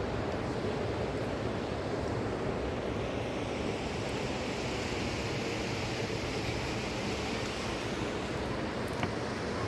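Fast-flowing mountain river rushing steadily, with a single faint click near the end.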